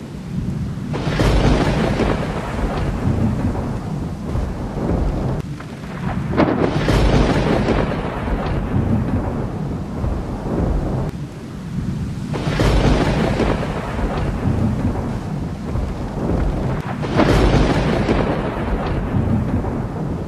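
Thunderstorm: four loud claps of thunder come roughly every five to six seconds. Each sharp crash fades into a long rolling rumble, and a deep rumble carries on between them.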